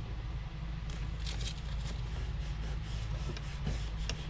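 Light scraping and handling sounds of the plastic gauge pod and tape being pressed into place, over a steady low hum.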